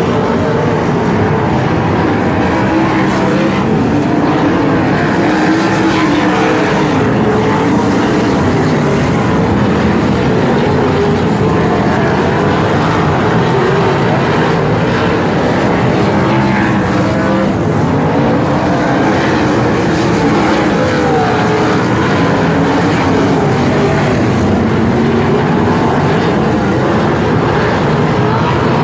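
Several sprint car engines racing together, loud and continuous, their pitches rising and falling as the cars go round the track.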